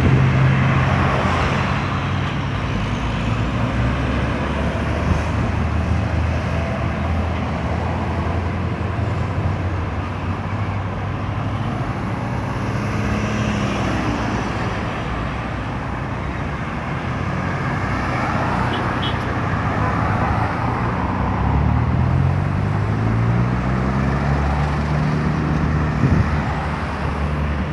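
Steady road traffic, with vehicles running past. In the last few seconds one engine rises in pitch as it accelerates.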